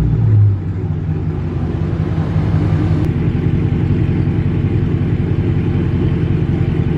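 Car engine idling with a steady low rumble, heard from inside the car. There is a brief louder swell right at the start.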